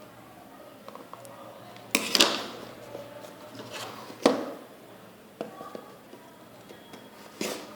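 Phone packaging being handled during an unboxing: a few sharp clicks and rustling knocks, loudest about two seconds in and again about four seconds in, with a smaller one near the end.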